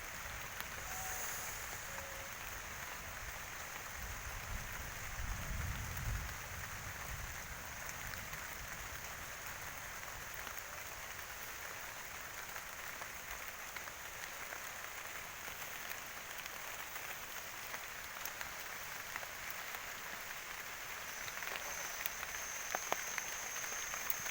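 Steady rain falling, an even hiss throughout, with a low rumble around five seconds in. A thin, high, steady chirring joins briefly about a second in and again over the last few seconds.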